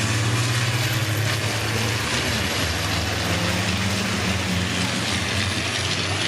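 Heavy racing trucks' diesel engines running steadily as the trucks lap the circuit, with a faint high whine above the engine sound.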